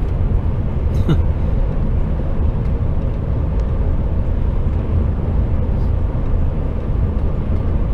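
Steady low rumble of an HGV's diesel engine and road noise, heard inside the cab of the moving lorry.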